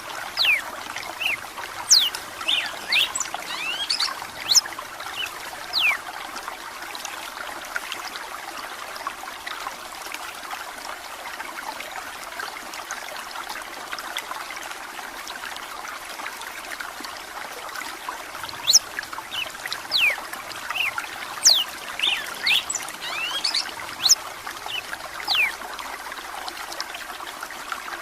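Red-cowled cardinal singing two bursts of quick, sweeping whistled phrases, one at the start and another about two-thirds of the way through, over steady trickling running water.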